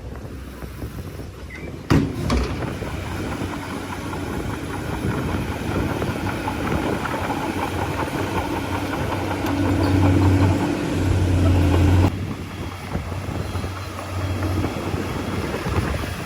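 Heavy diesel engine of a bulldozer running with a steady low drone that grows louder for a couple of seconds about ten seconds in, then drops off suddenly. A sharp knock sounds about two seconds in.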